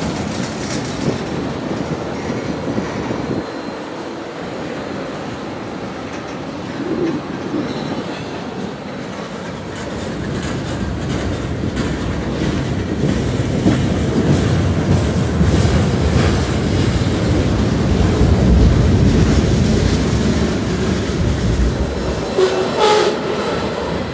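Freight train rolling past at close range, its cars' wheels clacking over the rails, getting louder partway through. A brief pitched note sounds near the end.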